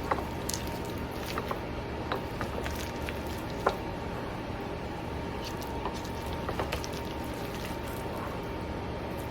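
Soft squishing and scattered light clicks as a thick shredded-chicken and cream cheese filling with crumbled bacon is worked in a bowl, over a steady low hum.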